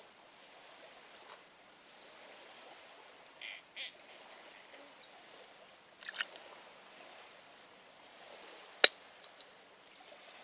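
Camp cooking gear being handled: a couple of soft knocks, a short clatter about six seconds in, and one sharp, loud clack near the end.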